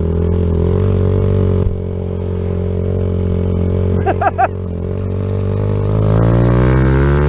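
Kawasaki Z125's 125 cc single-cylinder engine running as the bike rides along. The throttle eases off a little under two seconds in, and the pitch climbs steadily as it accelerates near the end. A brief voice is heard about four seconds in.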